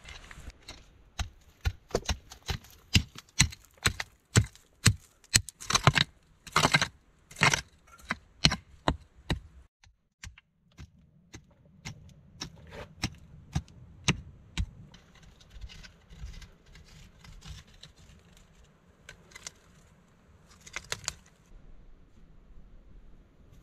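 Digging into an earth floor with hand tools: a run of sharp strikes into soil and stones, about two a second, stops about ten seconds in. Softer scraping of loose earth with a few clicks follows.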